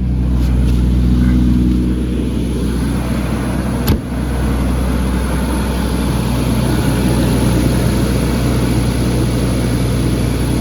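1994 Jaguar XJ12's V12 engine running steadily just after a cold start, having sat overnight; it is a little louder for the first two seconds, then settles. A single sharp click about four seconds in.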